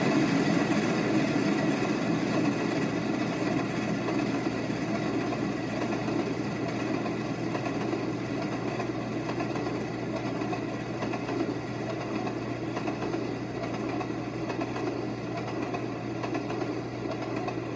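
Freight cars rolling past on steel wheels and rail, a steady noise that slowly grows quieter.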